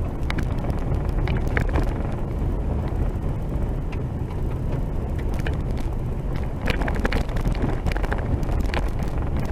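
Vehicle driving: a steady low rumble with frequent small rattles and knocks.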